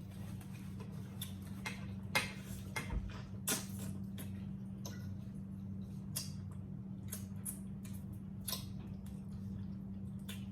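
Eating sounds at a meal: scattered small clicks and taps of cutlery and dishes, the sharpest about two seconds in, over a steady low hum.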